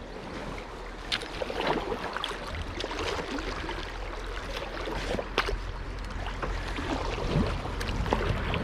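River water splashing and lapping around a kayak afloat on the current, with a couple of sharp knocks against the boat.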